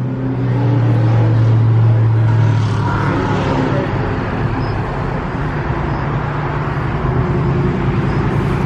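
Car engine running steadily at a low idle, a deep hum that eases a little after two to three seconds.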